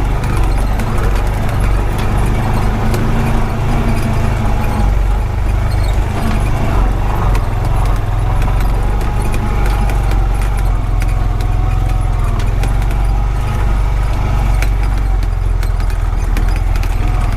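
Honda Pioneer 520 side-by-side's engine running steadily while driving over a rough dirt road, with frequent small clicks and rattles throughout.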